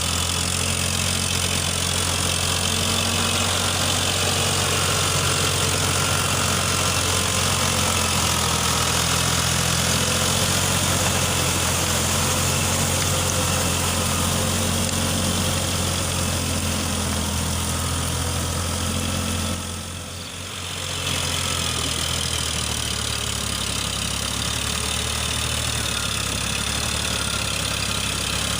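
Eicher 557 tractor's diesel engine running steadily, with a brief drop in level about twenty seconds in.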